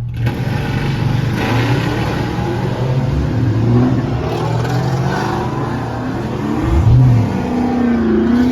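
Dodge Charger R/T's V8 engine under hard acceleration, with wind and road noise. The sound comes in suddenly and swells in waves as the revs climb and drop.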